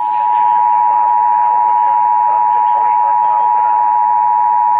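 Emergency Alert System two-tone attention signal on a NOAA Weather Radio broadcast: a loud, steady dual-pitched alert tone held without a break. It signals that a new severe thunderstorm warning is about to be read.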